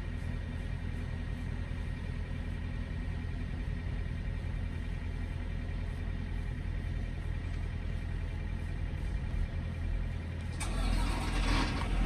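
Semi-truck diesel engine idling with a steady low rumble. About ten and a half seconds in, a louder rushing noise starts and runs for over a second.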